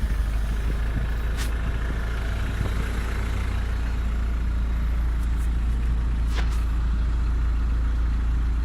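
1991 Mitsubishi Delica L300's turbo diesel engine idling steadily, already warm and just started, with a couple of brief clicks over the rumble.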